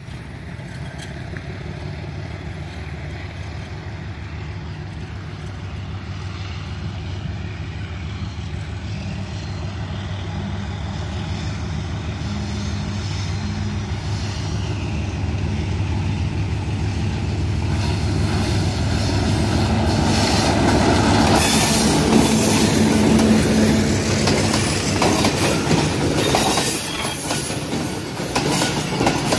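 Pakistan Railways HBU-20 diesel locomotive hauling a passenger train, its engine drone growing steadily louder as it approaches. From about eighteen seconds in, the rumble and clatter of the passing coaches' wheels on the rails takes over.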